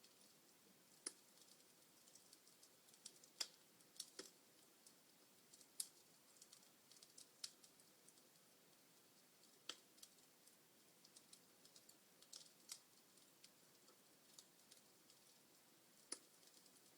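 Burning logs crackling in a fireplace: irregular sharp pops and snaps at uneven intervals over a faint steady hiss.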